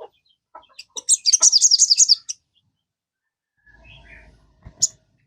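Sogon (crimson sunbird) singing: a few short chips, then about a second in a loud, rapid run of high, sharp notes lasting just over a second. A faint low rumble and a single click follow near the end.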